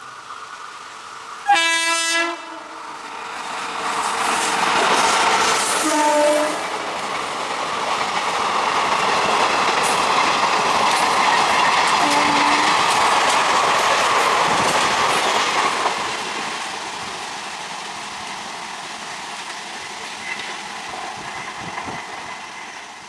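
An electric locomotive sounds its horn, a blast about two seconds in and a shorter one around six seconds, as a loco-hauled passenger express passes at speed. The wheels' clickety-clack over the rail joints builds as the coaches go by, then fades as the train draws away.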